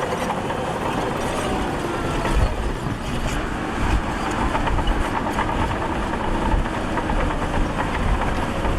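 Heavy earthmoving machinery's diesel engine running under load, with repeated metallic clanks and rattles over a steady low rumble.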